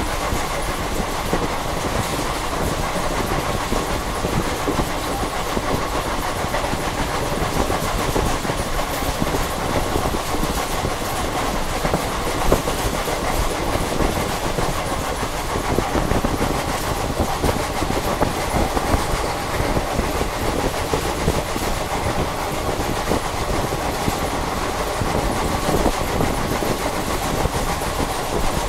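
Passenger express train running at speed, heard from aboard a coach: a steady rumble and rush of steel wheels on the rails, with scattered clickety-clack.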